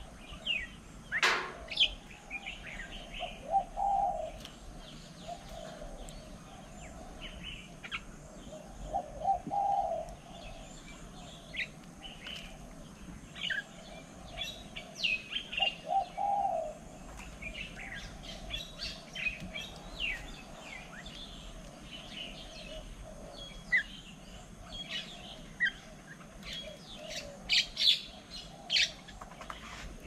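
Birds calling, a mix of many short high chirps with lower calls about 4, 9 and 16 seconds in.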